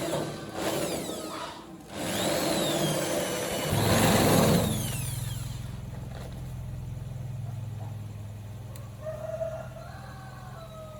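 Power-tool or workshop noise: high squealing sweeps, then a loud burst about four seconds in, after which a steady low machine hum runs on. Near the end a rooster crows.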